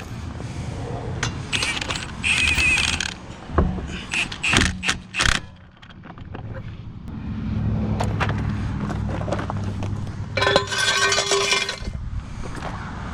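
Metal clanks, rattles and knocks as a pickup truck's front wheel is hung back on the hub and its lug nuts are run on, with a cluster of sharp knocks around the middle and a short whirring burst near the end.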